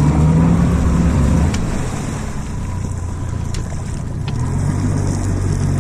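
Boat's outboard motor running, with the throttle eased back after about a second and a half and opened up again near the end, over wind and water noise.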